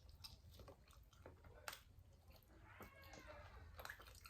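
Faint chewing of a person eating, with scattered short wet mouth clicks and smacks.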